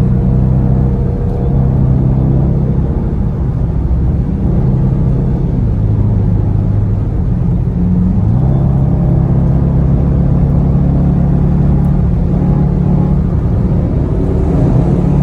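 Dodge Charger R/T's 5.7-litre V8 pulling hard at freeway speed in sport mode. A steady engine note whose pitch dips and then steps back up a little past halfway.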